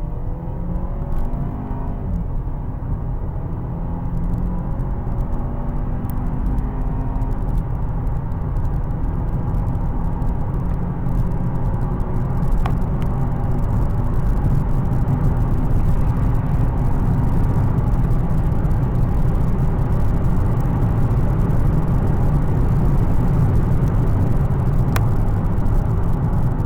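Mercedes-Benz C250 CGI's turbocharged four-cylinder engine accelerating hard at full throttle. Its note climbs in pitch through the gears in the first few seconds, then a steady drone of engine, road and wind noise grows slowly louder as speed builds toward 200 km/h.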